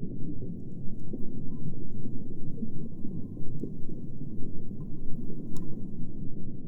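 Muffled, steady rumbling water noise as heard by a camera underwater in its sealed housing, with a few faint clicks.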